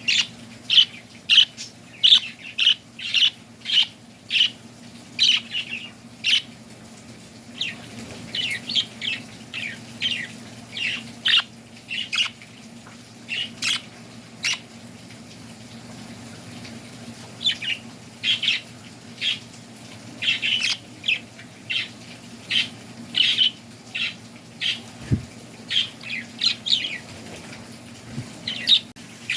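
Small birds chirping in quick runs of short, high calls, with a lull of a couple of seconds midway. A low steady hum runs underneath.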